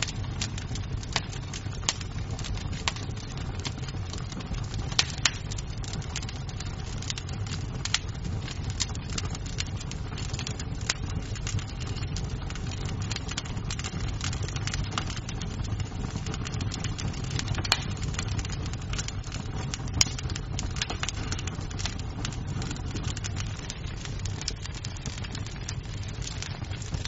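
Wood fire crackling in a fireplace: frequent irregular snaps and pops of burning wood over a steady low rumble, with a few louder pops scattered through.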